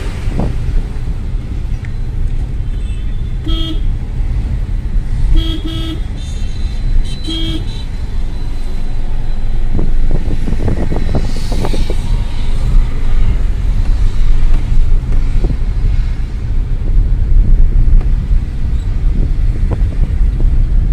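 Maruti Celerio driving through traffic, heard from inside the cabin: a steady low road and engine rumble, with four short car horn toots, one about three and a half seconds in, two close together around five and a half seconds and one near seven and a half seconds. A louder swell of road noise follows around ten to twelve seconds in.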